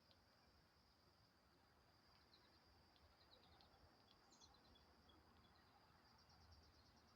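Faint outdoor ambience: a steady high insect drone, with scattered faint bird chirps in the middle and a quick run of chirps near the end.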